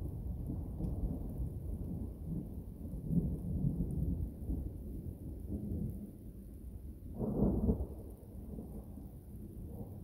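Thunder rumbling low and continuously, swelling and fading, with a louder peal about seven seconds in.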